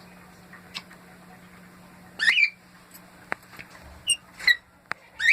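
Pet bird calling: one short call rising in pitch about two seconds in, then two quicker rising calls near the end, with a few faint clicks in between.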